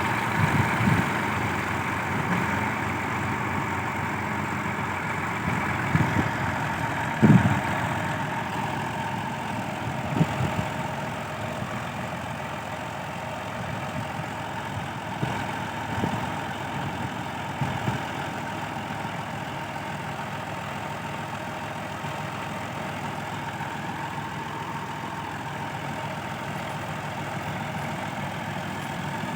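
Tractor engine running steadily at idle, with a few short, dull thumps, the loudest about seven seconds in.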